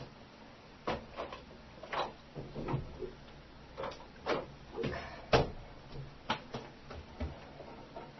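Irregular knocks and clatters of small objects being picked up and set down, about a dozen sharp taps, the loudest about five seconds in.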